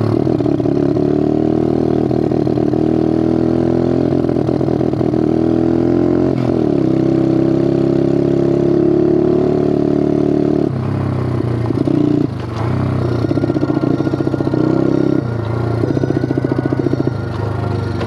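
Bigfoot 125 four-stroke pit bike engine running under throttle while ridden, its pitch holding and then dropping sharply and climbing again several times, about 6, 11, 12 and 15 seconds in.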